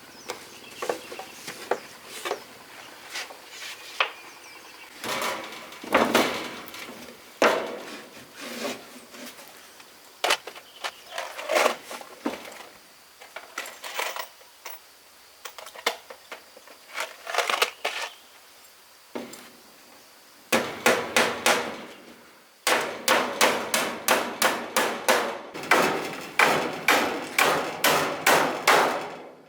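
Hammering on wood: irregular knocks and strikes at first, then about two-thirds of the way in a steady run of strikes, roughly three a second.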